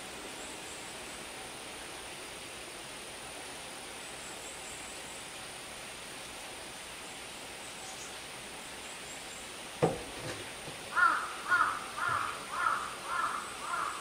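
One sharp knock, then a bird calling six times in a quick, even series near the end, over a steady outdoor hiss with faint high chirps.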